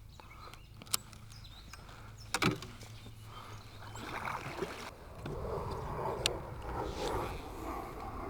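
Kayak on the water: quiet at first with a few sharp clicks, then from about halfway a soft swishing of water that swells several times.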